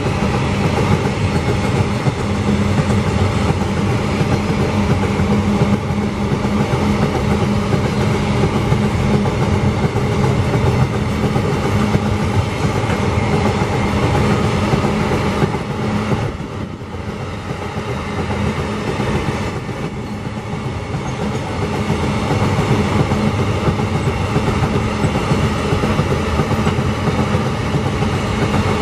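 GDU gondola ore wagons of a long iron-ore freight train rolling past, a steady heavy rumble with wheel clatter. The sound eases a little for a few seconds just past the middle, then returns.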